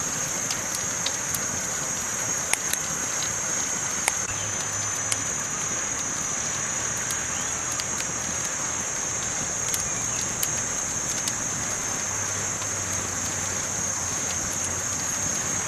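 Campfire burning: a steady hiss of the fire with scattered sharp crackles and pops, a few of them standing out in the first five seconds, over a constant high-pitched hiss.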